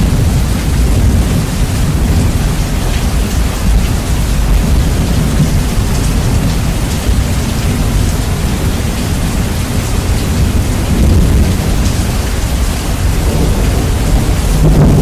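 Heavy rain with rumbling thunder, bass boosted until the low end is heavy and distorted. It is a dense, steady hiss over a continuous deep rumble.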